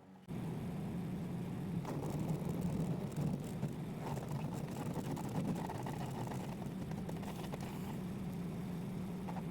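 Forestwest 7HP wood chipper with a RATO 212cc single-cylinder petrol engine running steadily at working speed while chipping eucalyptus branches. It cuts in abruptly just after the start, with small irregular surges in the noise.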